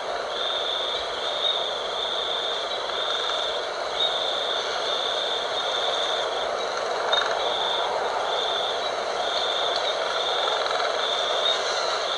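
Night wind blowing steadily, with a high-pitched insect trill running in repeated pulses, each under a second long, over it.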